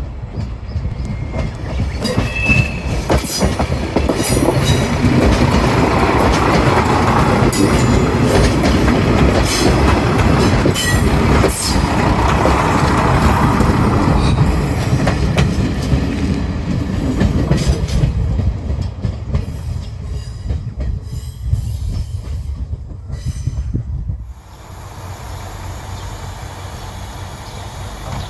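Diesel railcar train running past on the track, its wheels clicking over rail joints with a high wheel squeal. The sound builds over the first few seconds, stays loud for a long stretch, then drops suddenly to a steady low rumble near the end.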